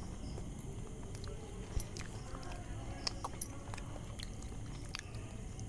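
People chewing and biting into crisp pan-fried wheat-flour potato tacos, with a few short scattered crunches and clicks.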